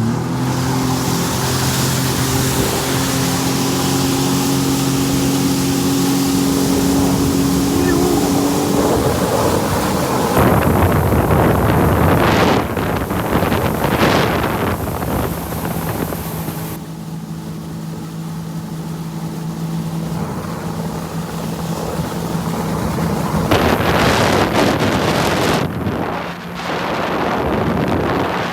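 Jet ski engine running under way: a steady drone, at times drowned by rushing wind and water noise on the microphone.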